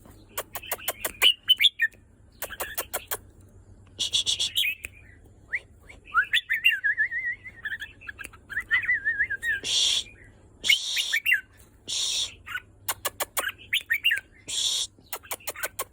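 Red-whiskered bulbul calling and singing: short harsh chattering calls and quick runs of sharp clicking notes, repeated throughout, with a longer warbling trill in the middle.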